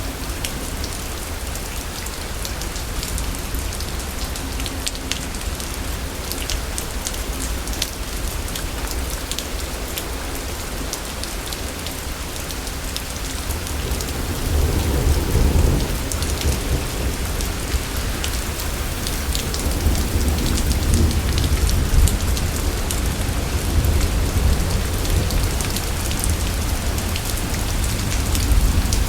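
Steady rain with rolling thunder: a deep rumble swells about halfway through and comes back louder near the end.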